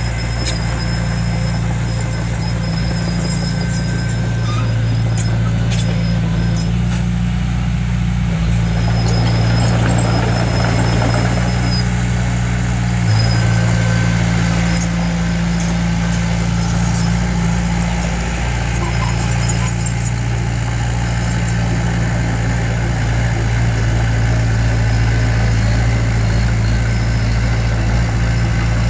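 Heavy construction machine's diesel engine running steadily at a constant pitch, with faint high squeaks and a few light clicks over it.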